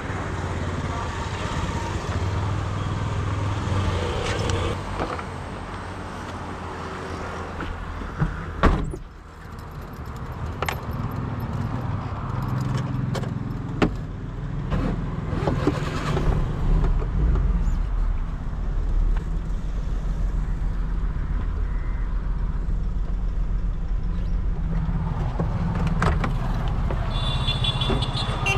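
Maruti 800's 796 cc three-cylinder petrol engine running steadily, with a loud thump about nine seconds in and a few sharp clicks after it. From about sixteen seconds the engine's low hum grows stronger.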